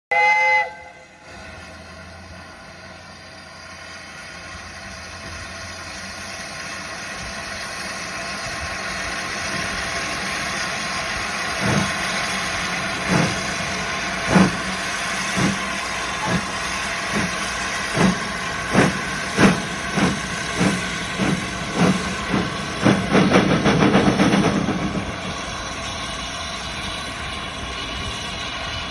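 USATC S160 2-8-0 steam locomotive pulling away. It starts with a brief whistle, then a steady hiss of steam that slowly grows. A little under halfway through, exhaust chuffs begin, slow at first and then quickening as it gathers speed, loudest just before they merge into a steadier running sound near the end.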